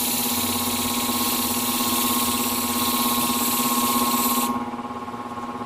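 Ceramic shear blade tip being ground on a water-fed diamond abrasive of a motor-driven sharpening machine: a grinding hiss over the machine's steady hum, stopping about four and a half seconds in. The grinding is shortening the blade tip to close a gap between the tips.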